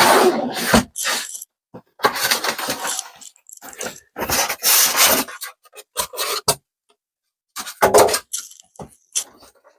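Cardboard box and packaging being handled as an RC monster truck is pulled out: on-and-off rubbing and scraping, a few sharp clicks, with short pauses between.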